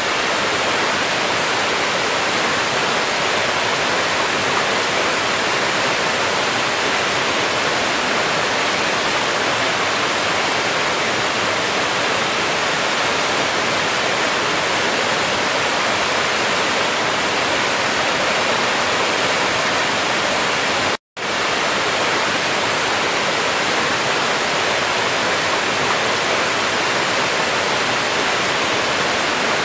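Waterfall: a steady, even rush of falling water. About two-thirds of the way through, the sound cuts out completely for a split second and then returns as before.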